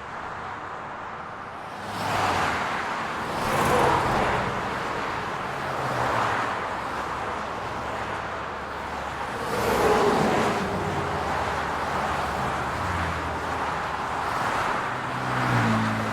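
City road traffic: a steady low hum of car engines and tyre noise, with cars passing by that swell and fade, the loudest about three seconds in and again around ten seconds.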